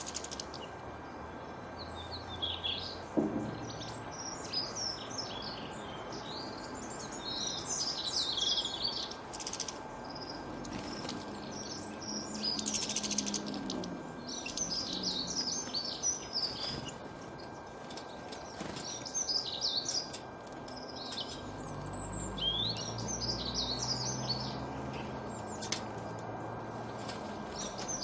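Small birds chirping and twittering in short, repeated phrases over a steady background hiss.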